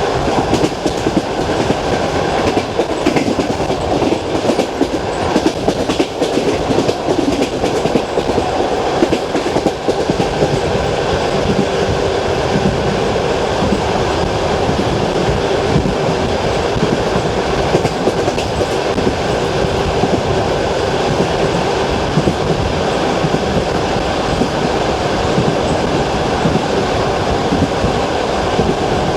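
Wheels of a long-distance passenger train clacking rhythmically over the rail joints of jointed track, over the steady rumble of the carriage running at speed, heard from inside the carriage.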